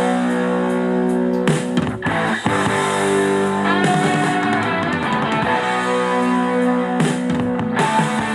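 Guitar-led rock music played back through a portable Bluetooth speaker and picked up by a microphone, with held chords and a couple of brief breaks.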